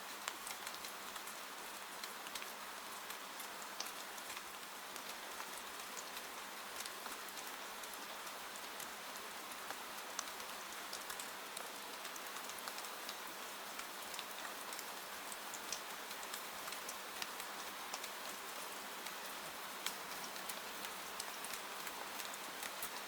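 Steady rain falling, with scattered sharp crackles and pops from a wood fire throughout.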